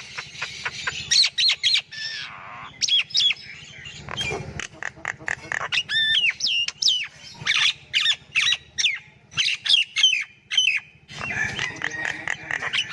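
Myna calling: a rapid, varied run of squawks, sharp clicks and short whistled notes that glide up and down.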